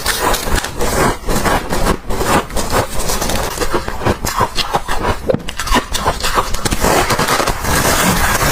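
Freezer frost crunching close to the microphone: a dense, irregular run of crisp crunches with no pause.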